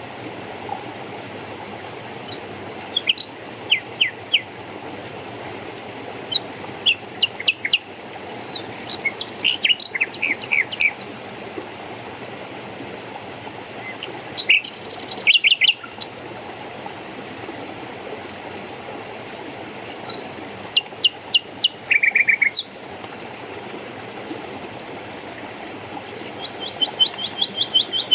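Small birds chirping and calling in short bursts of quick high notes every few seconds, over a steady rushing of flowing water.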